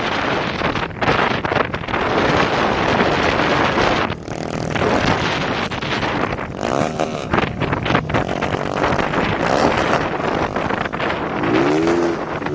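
Wind buffeting the microphone on a moving motorcycle, with straight-piped motorcycle exhausts revving up and down several times. The strongest rev, a rise and fall, comes near the end.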